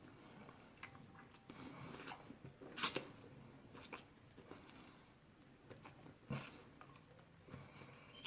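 Close-up chewing of chicken: wet mouth smacks and short sharp clicks, the loudest about three seconds in and another a little after six seconds.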